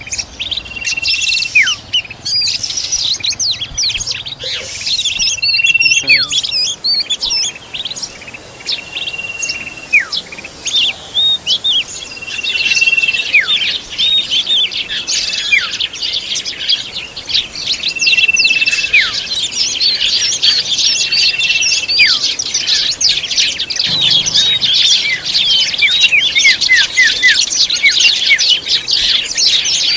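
Oriental magpie-robin calling: a held whistle that drops sharply at its end, repeated every few seconds, over many quick high chirps that grow busier in the second half.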